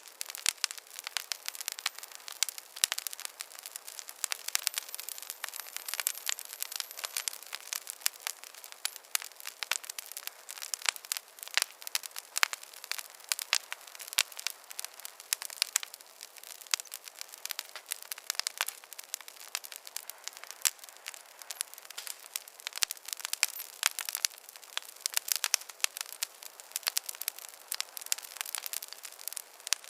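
Wood fire crackling in a fireplace: a steady stream of sharp snaps and pops over a soft hiss.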